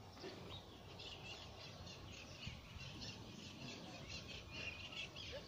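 Birds chirping faintly: many short, irregular calls, over a low rumble.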